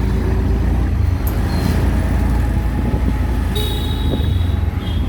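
Riding in an auto-rickshaw through city traffic: a steady low rumble of the engine and road. A vehicle horn sounds briefly about three and a half seconds in.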